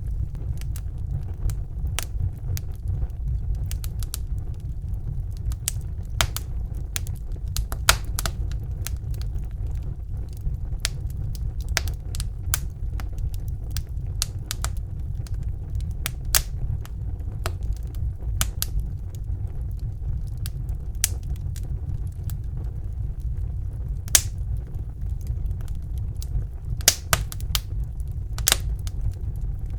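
Wood fire in a fireplace burning with a steady low rumble, and sharp irregular crackles and pops from the burning logs, a few louder pops standing out.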